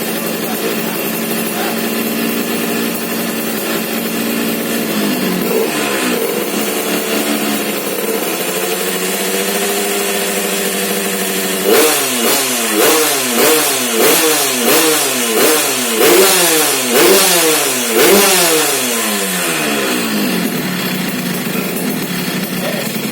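Yamaha F1ZR two-stroke single-cylinder engine running through a racing-style exhaust: idling steadily, one slow rev up and down around the middle, then about eight quick throttle blips in a row, each rising and dropping back, before settling to idle again.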